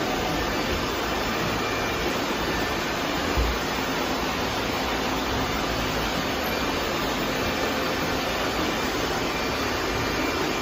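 Many robot vacuums running at once, a steady whirring noise of their motors and brushes, with a single low thump about a third of the way in.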